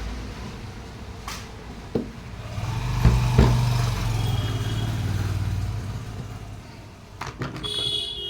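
Low engine hum of a passing motor vehicle, swelling about two and a half seconds in and fading out, with a few sharp clicks and knocks and a brief high-pitched tone near the end.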